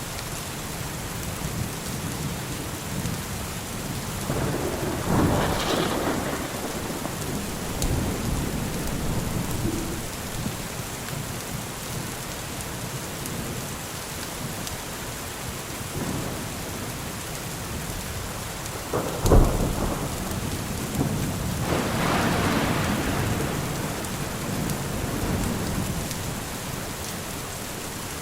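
Steady rain with two rolls of thunder: a rumble about five seconds in, and a sharp crack about two-thirds of the way through that rolls on for several seconds.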